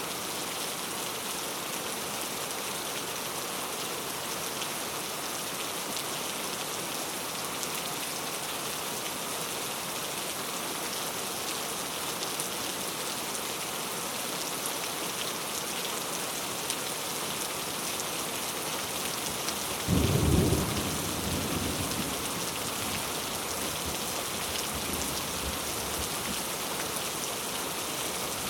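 Steady rain falling, an even hiss of drops, with a sudden low rumble of thunder about twenty seconds in that dies away over a few seconds.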